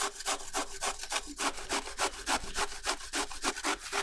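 Vegetables being worked by hand on a board: a rapid, even run of scraping strokes, about five or six a second.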